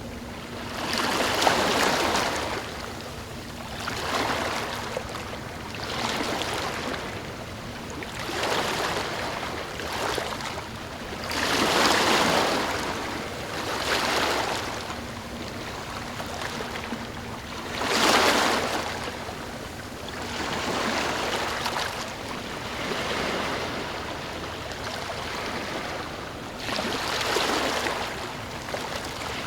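Small waves lapping, the water washing in and drawing back in uneven surges every two seconds or so, some noticeably louder than others.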